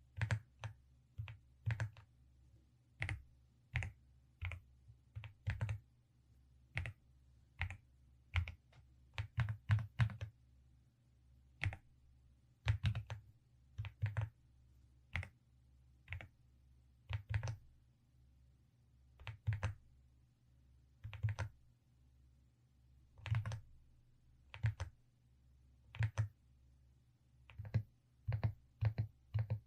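Velocifire RX870 mechanical keyboard with DSA keycaps being typed on: separate clacky keystrokes at an unhurried, uneven pace, some in quick runs of two to four, with short pauses between.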